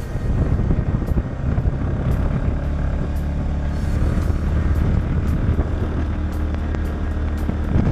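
Polaris Ranger 570 side-by-side's single-cylinder engine running at a steady speed while driving, with scattered sharp ticks over it.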